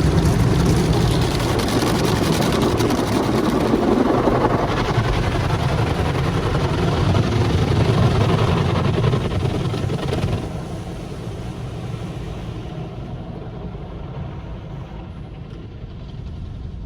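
Automatic drive-through car wash machine working over the car, heard from inside the cabin: a loud, steady rushing noise over a low hum. About ten seconds in it drops sharply and then fades as the wash cycle winds down.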